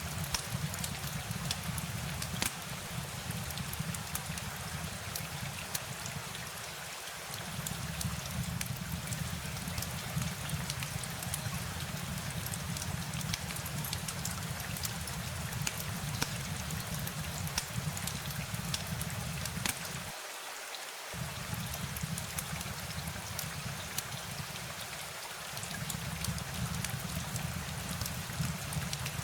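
Steady rain falling, an even hiss full of sharp drop taps, with a low rumble underneath that drops out briefly three times.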